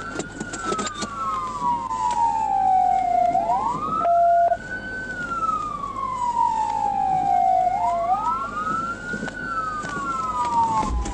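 Police cruiser siren on wail: a tone rising quickly and falling slowly, repeating about every four seconds, with two siren tones running slightly out of step. A short steady tone, loud and brief, sounds about four seconds in.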